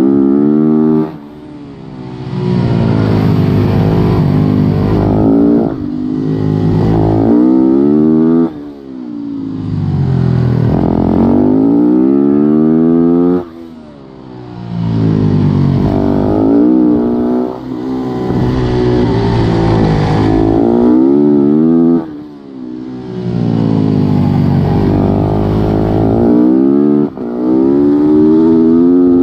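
Onboard supermoto motorcycle engine racing: the pitch climbs through the gears in repeated runs, and the throttle is chopped about five times for corners before it revs up again.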